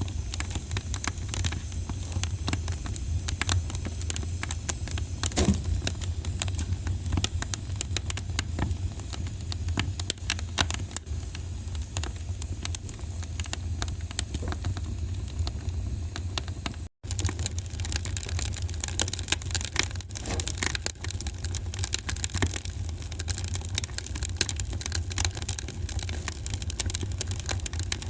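Wood fire crackling in a fireplace, with many sharp pops and snaps over a steady low rumble. The sound cuts out for an instant a little past halfway through.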